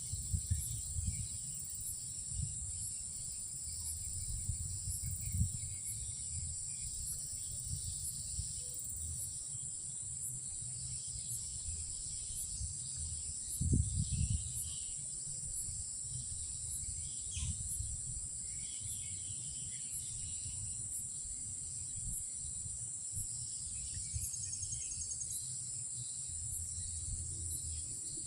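Night insects, crickets among them, keeping up a steady high-pitched drone, over a low rumble with a brief thump about halfway through.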